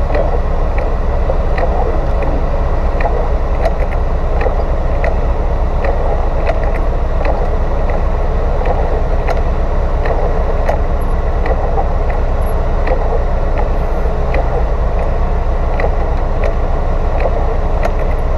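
Off-road vehicle's engine idling steadily while the vehicle stands still in the rain, with a light regular tick about every three-quarters of a second.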